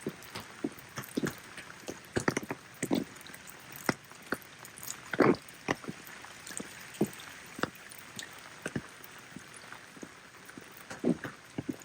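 Rain falling, with many large drops striking hard and irregularly close by over a steady faint patter; one drop about five seconds in is the loudest.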